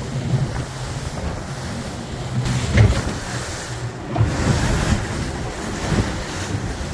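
Speedboat engine running steadily under way, with wind buffeting the microphone and water rushing past, surging louder several times.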